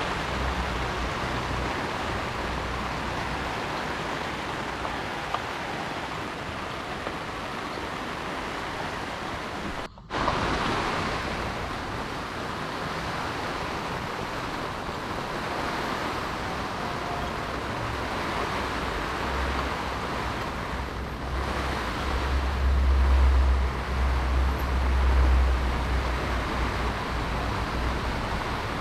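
Heavy rain falling steadily, an even hiss that breaks off for an instant about ten seconds in. In the second half a low rumble swells under the rain for several seconds.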